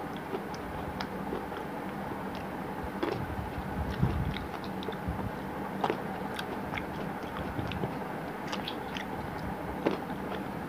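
A person chewing green grapes close to the microphone: wet mouth sounds with many small scattered clicks, over a faint steady low hum.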